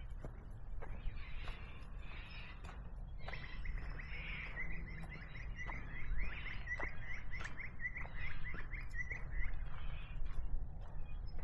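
Birds calling in eucalypt bushland, one of them repeating a rapid series of short notes, about four a second, for several seconds in the middle, over a steady low rumble.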